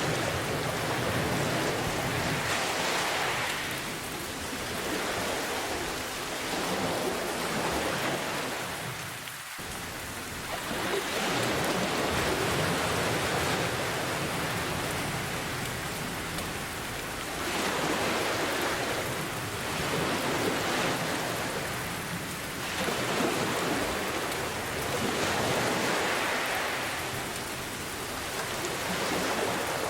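Steady rain mixed with ocean waves, a dense hiss that swells and eases every few seconds, with a brief lull about a third of the way in.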